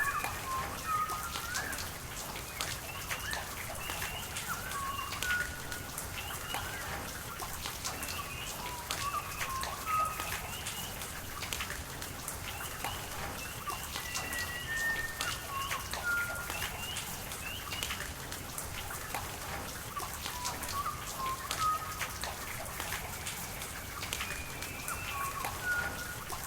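Rain falling, with scattered raindrop ticks over a steady wash of water noise, while birds call with many short chirps throughout.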